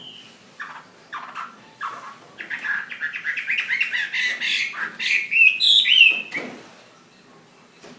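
Chinese hwamei singing: a few separate whistled notes, then about two and a half seconds in a loud, fast run of varied notes that lasts some four seconds and stops.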